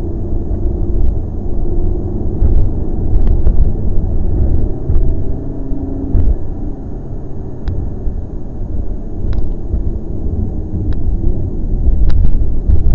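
Lamborghini Gallardo's V10 engine running under way, heard inside the cabin as a heavy low rumble that rises and falls in loudness with the throttle.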